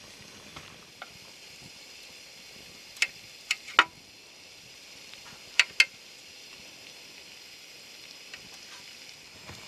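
Potatoes frying in a hot pan with a steady sizzle. A spatula clicks sharply against the pan three times around three to four seconds in, and twice more shortly after.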